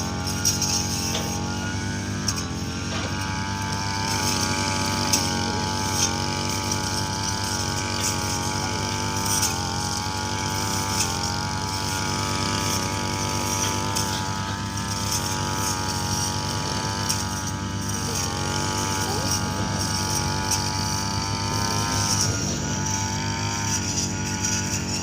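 Heavy vehicle engine running steadily at a constant speed, its pitch wavering only slightly.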